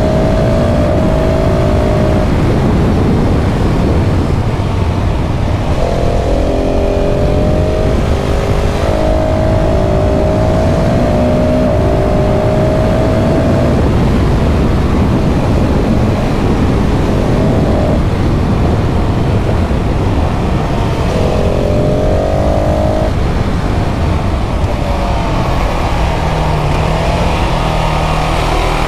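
KTM 690 SMC R's single-cylinder engine pulling hard through the gears, its note climbing and dropping back at each shift, again and again. Heavy wind rush lies underneath.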